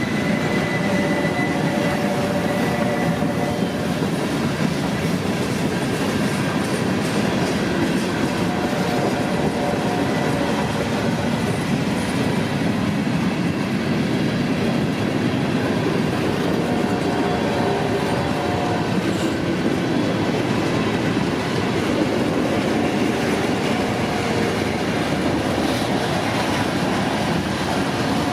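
Freight cars of a CSX manifest train rolling past, a steady rumble and clatter of wheels on rail, with faint on-and-off wheel squeal.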